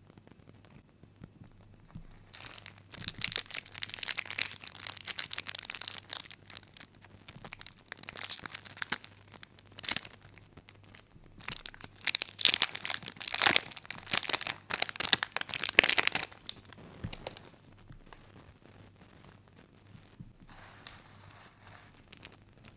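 Plastic candy wrapper being crinkled and torn open, in dense crackling handling that starts a couple of seconds in and dies away near the end.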